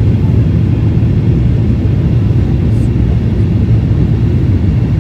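Airliner engine and airflow noise heard from inside the cabin on the approach to landing: a loud, steady low rumble.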